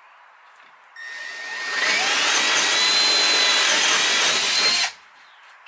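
Power drill spinning up and boring a hole through plywood. The motor's whine starts about a second in, the cutting noise builds and holds for about three seconds, then stops suddenly.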